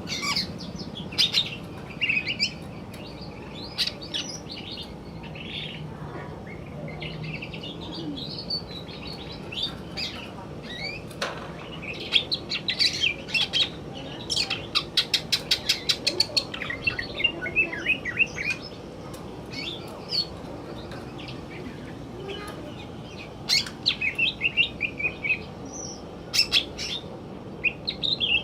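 Male green leafbird (cucak ijo) singing a long, varied song of chirps, whistled slides and trills. Dense fast runs of sharp notes come about halfway through and again near the end.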